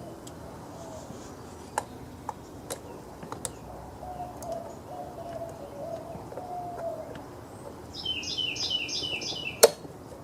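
Birds calling outdoors: a run of low, flat repeated notes in the middle, then a quick series of high chirps near the end. Light scattered clicks, and one sharp click near the end, from hand work on the chainsaw parts.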